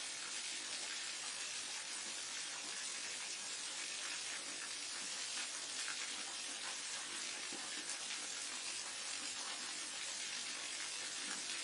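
Forest waterfall running steadily: a constant hiss of falling, splashing water with a fine crackling patter.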